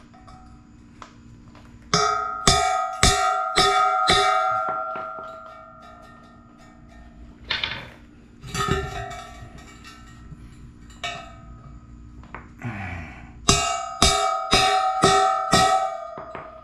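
Hammer blows on steel, each strike leaving the metal ringing with a clear bell-like tone, in two runs of about six quick blows with a few single strikes between, over a faint steady hum.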